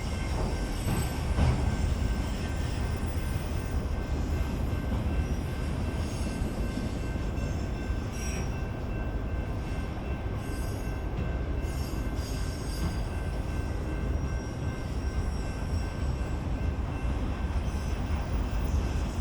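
BNSF freight train rolling past, a steady rumble of the cars on the rails, with faint thin high tones over it.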